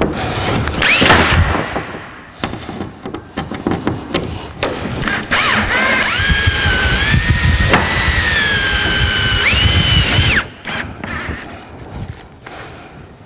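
Power drill driving wing-tipped screws into steel workbench beams: a short spin-up about a second in, then the motor runs for about five seconds under load, its whine rising just before it stops suddenly. Light knocks and handling noise come between.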